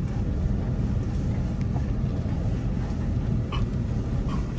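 Car driving along at a steady pace, its engine and tyres making a continuous low rumble inside the cabin.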